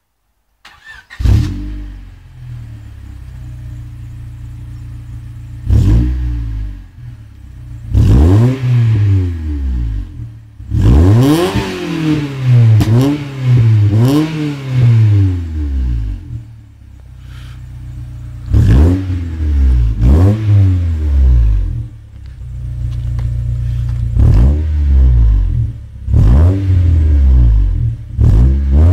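Honda Civic's 1.6 SOHC VTEC D16Y8 engine, breathing through a 4-2-1 manifold and an aftermarket back box with a 3-inch rolled tip, starts up about a second in and idles, then is revved again and again: each blip rises sharply in pitch and falls back to idle, with a quick run of several revs in the middle.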